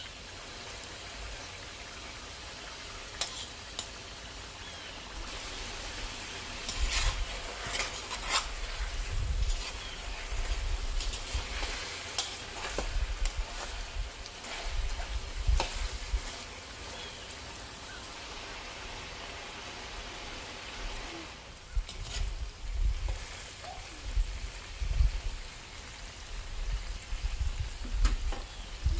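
Chicken pieces frying in oil in a wok over medium-high heat, a steady sizzle. A spatula stirs and scrapes against the pan in spells through the middle and again near the end.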